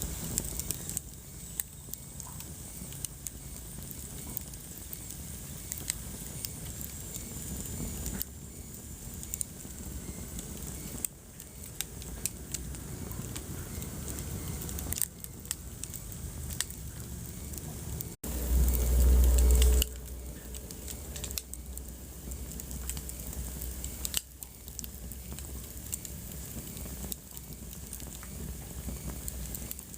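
Wood fire burning in a fireplace, crackling with many small sharp pops over a steady low rumble. About 18 s in the sound cuts out for an instant, followed by a loud low rumble lasting about a second and a half.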